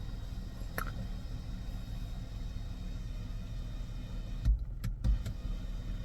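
Car engine idling, a steady low hum, with a couple of short thumps near the end.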